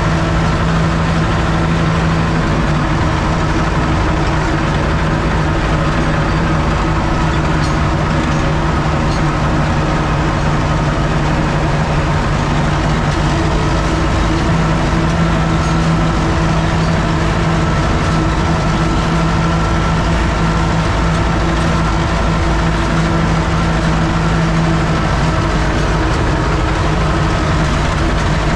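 U650 tractor's four-cylinder diesel engine running at a steady speed, a constant loud drone with no change in pitch.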